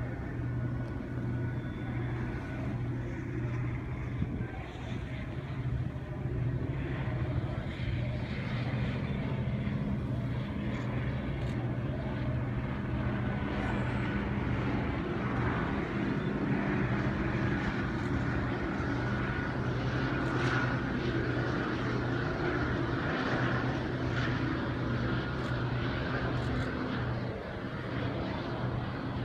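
Steady engine drone with a constant low hum, under a noisy rush that grows louder in the middle stretch and eases toward the end.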